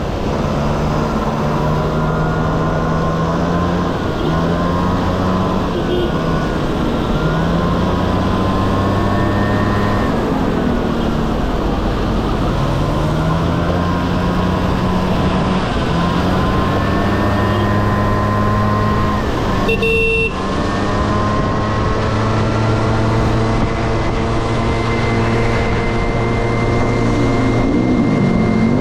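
Honda Dio AF18 scooter's single-cylinder two-stroke engine running under way, its pitch rising and falling again and again as the throttle opens and closes.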